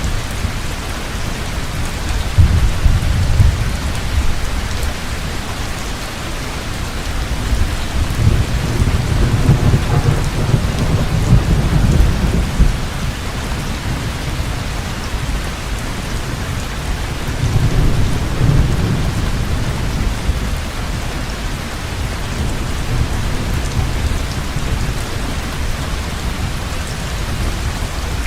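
Heavy rain falling steadily, with three low rolls of thunder; the longest swells through the middle.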